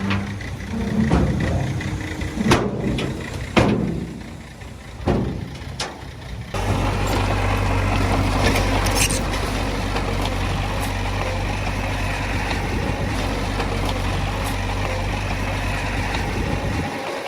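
Heavy diesel earthmoving machinery: a few sharp knocks and clanks over an uneven rumble, then an abrupt switch, about six and a half seconds in, to a diesel engine running steadily with a deep, even hum.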